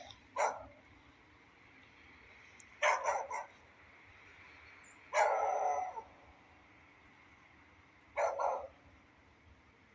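Beagle barking in separate bursts: one bark right at the start, a quick run of three or four barks about three seconds in, a longer drawn-out bark about five seconds in, and another short burst near eight seconds. A faint, steady rain hiss runs between the barks.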